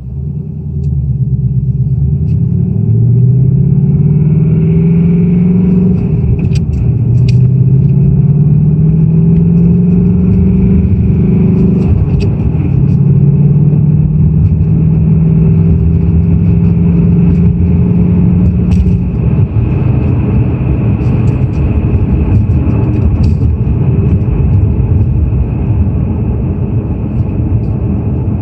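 2018 Ford Mustang GT's 5.0-litre Coyote V8 running under load: its pitch rises three times, dropping back after the first two rises, and it then runs steady for the last third or so.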